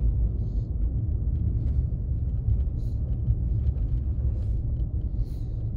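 Steady low rumble of a Volkswagen Lupo 3L being driven, heard from inside the cabin: engine and road noise, with a few faint ticks.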